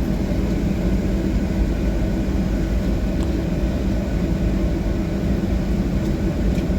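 Steady cabin noise of a Boeing 737-700 on the ground, its CFM56-7 jet engines running at low power: a continuous low rumble with a constant hum.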